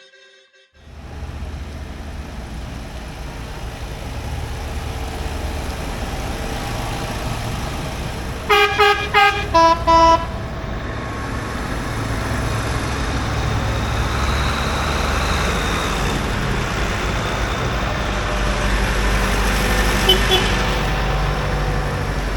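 Tractor engine running steadily, with a vehicle horn giving five short toots about nine seconds in, the last two lower in pitch.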